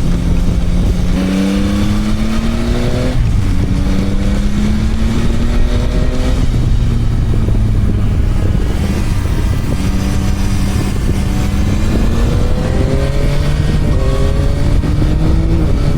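Motorcycle engine pulling through the gears: its pitch climbs steadily, then drops sharply at each upshift, about three times.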